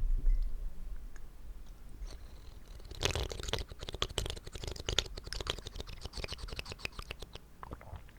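Wet mouth sounds close to the microphone: a dense run of quick clicks and smacks starting about three seconds in, after a low rumble at the very start.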